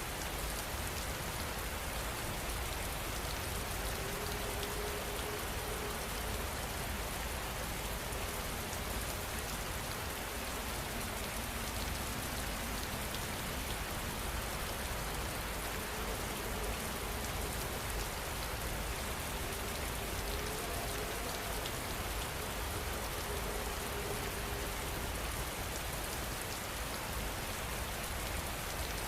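Steady rain falling: an even, continuous hiss with no breaks.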